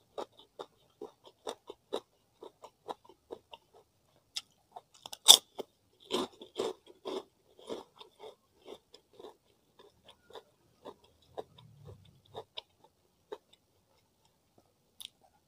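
Close-miked mouth sounds of a person chewing food, with short crisp clicks about twice a second. About five seconds in comes one sharp, much louder crunch, followed by a second or so of denser, louder chewing.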